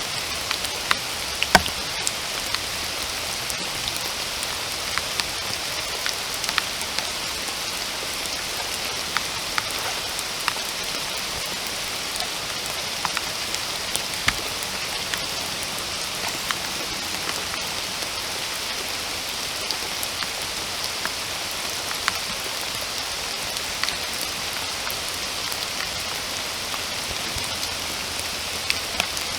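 Steady rain, an even hiss, with scattered single drops ticking close by; one louder drop lands about a second and a half in.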